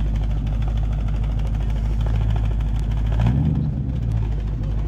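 Classic car engine idling close by with a steady low rumble, briefly swelling in a short rise of engine note about three seconds in.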